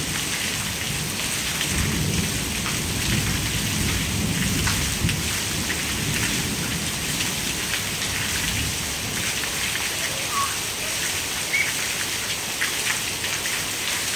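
Heavy rain pouring down steadily, with a low rumble of thunder from about two to five seconds in.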